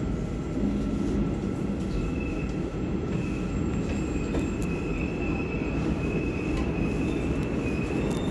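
Korail 351000-series electric commuter train running on the rails with a steady low rumble. A thin, high wheel squeal starts about two seconds in and holds.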